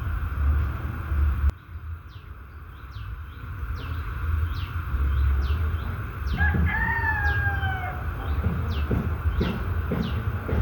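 A rooster crows once, a long call of about a second and a half with a slightly falling pitch, starting about six seconds in. Behind it a small bird repeats short, high, downward-sliding chirps roughly twice a second, over a low rumble. The sound changes abruptly about a second and a half in.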